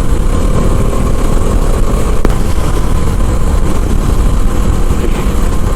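Motorcycle riding at road speed: a steady rush of wind over the microphone over the drone of the engine.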